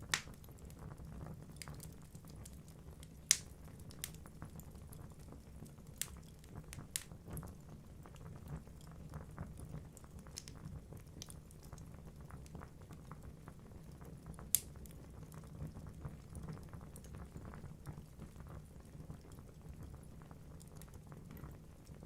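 Logs burning in a fireplace: the flames give a steady low rumble, and the wood crackles with irregular sharp pops. The loudest pops come about three seconds in and again near fifteen seconds.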